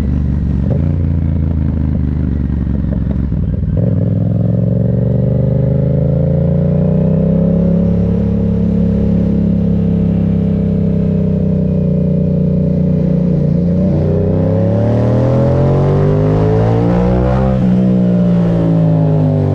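Yamaha MT-07's parallel-twin engine running steadily low, then pulling up in revs about four seconds in and holding a steady speed. From about fourteen seconds in it revs up steeply, then the throttle closes and the revs fall near the end.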